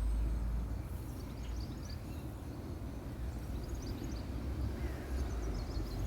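Outdoor nature ambience: small birds chirping in short bursts over a steady low rumble.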